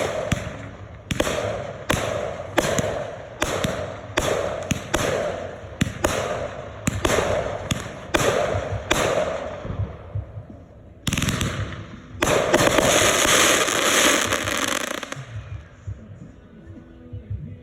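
Consumer fireworks going off: a quick string of sharp bangs for about ten seconds, then after a short pause a dense crackling burst lasting about three seconds before it dies down.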